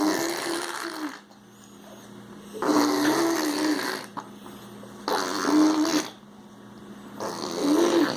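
A baby boy making four raspy, throaty vocal noises, each lasting about a second, with short pauses between them.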